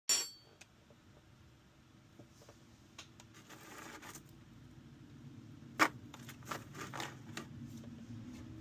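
Eating and tableware handling: light clicks and taps, a short scrape about three and a half seconds in, and a sharper click near six seconds, followed by a run of taps, over a low steady hum.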